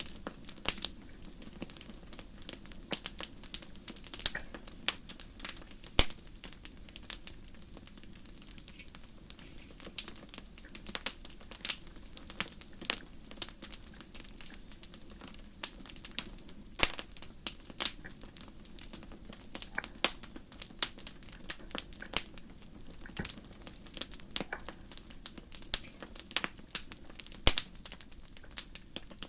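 Fire crackling: irregular sharp pops and snaps, a few of them louder, over a soft steady low rush.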